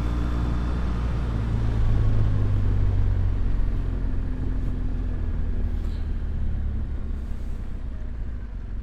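BMW R1200GS Adventure's boxer-twin engine running under way with a low rumble, a little louder about two seconds in, then easing off gradually over the last few seconds as the bike slows.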